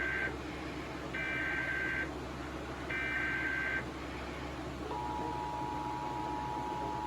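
Emergency Alert System SAME header relayed from NOAA Weather Radio: the tail of one burst of screechy data tones, then two more bursts of about a second each. About five seconds in, the steady two-tone EAS attention signal starts and holds.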